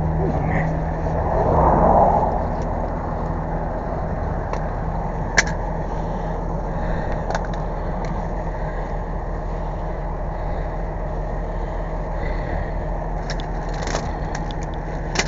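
A truck engine idling steadily, with a louder swell about two seconds in and a few sharp clicks scattered through.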